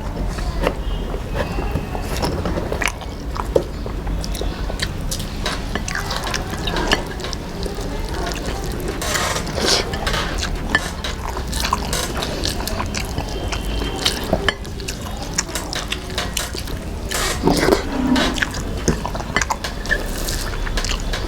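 Close-up wet chewing, lip smacks and mouth sounds of a person eating, with irregular small clicks all through and a steady low hum underneath.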